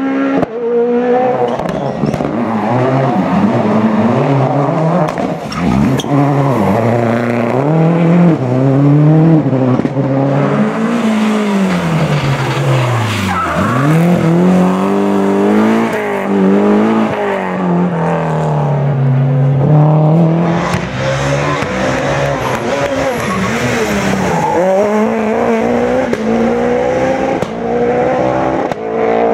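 Rally cars at full race pace, engines revving up and dropping back repeatedly through gear changes and corners, with tyre squeal.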